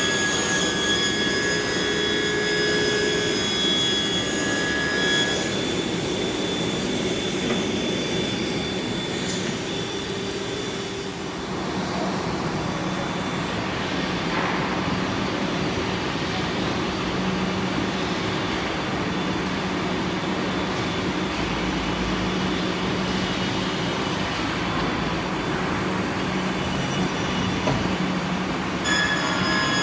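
CNC panel drilling machine running: steady machine noise with several high whining tones for the first five seconds and again near the end, and a rougher, noisier stretch between.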